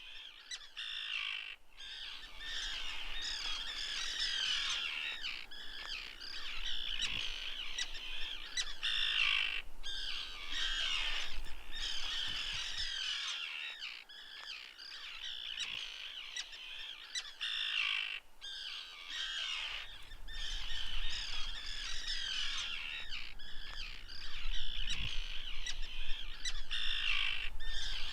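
A flock of seabirds calling, many shrill squawking calls overlapping in a continuous chatter. A low rumble comes and goes beneath it.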